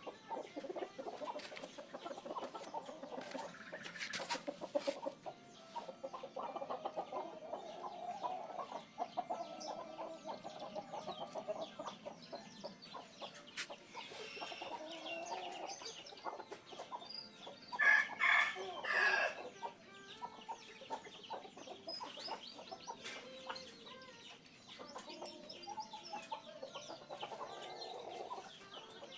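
Chickens clucking steadily, with a short run of louder, higher calls about two-thirds of the way through.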